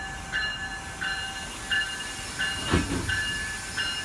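GO train locomotive bell ringing steadily, about one stroke every 0.7 s, over the steady hiss of the train. A single heavy thump about two-thirds of the way in.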